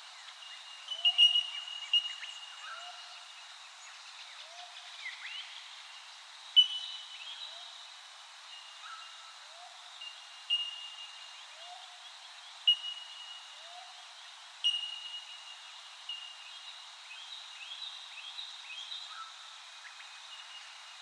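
Birds calling outdoors. A short, low rising note repeats about once a second, a sharp whistled note returns every few seconds, and quick chirps are scattered around them.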